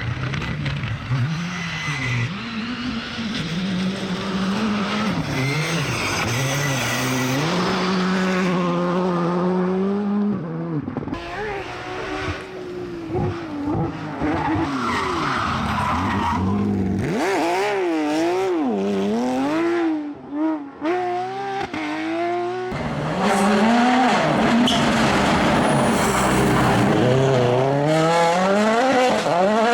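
Rally car engines revving hard, their pitch rising and falling again and again with throttle and gear changes, mixed with tyre skidding. The sound changes abruptly a few times, at about 10, 17 and 23 seconds in.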